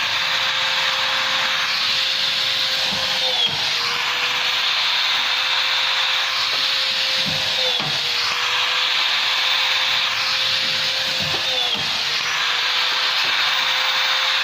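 Power rivet gun running with a steady whine over a hissing rush; three times the whine briefly dips and recovers, as rivets are pulled.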